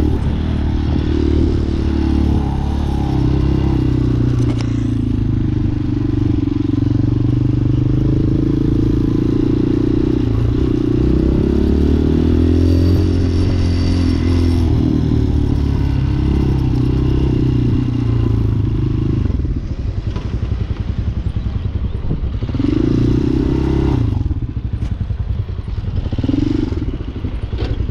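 Hawk 250 dual-sport motorcycle's 229cc single-cylinder engine running while riding, its note shifting with the throttle. About twenty seconds in it settles to a lower, pulsing note, with two short revs near the end.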